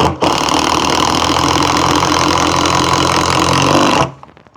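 Avid Power cordless impact driver running under load for about four seconds, driving a screw into wood with no pilot hole, with a brief stutter just after it starts; it stops abruptly.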